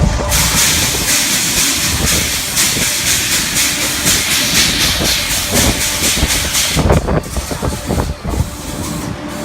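Sea surf washing onto a beach: a long, loud hiss of breaking water that eases about seven seconds in.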